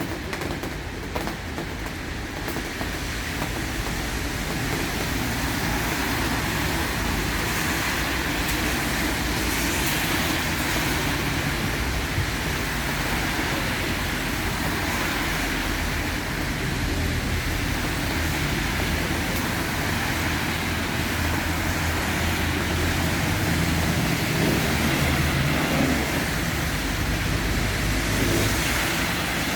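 Steady vehicle noise: a low engine hum under an even road hiss, with no sudden events.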